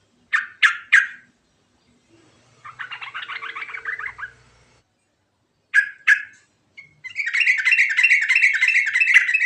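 Yellow-vented bulbul (trucuk) singing. It gives three sharp downward-sweeping notes, a chattering phrase, then two more sharp notes. From about seven seconds in it breaks into a fast, rolling trill.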